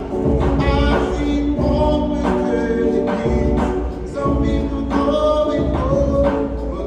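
A street musician's performance: singing over music with a strong, pulsing bass.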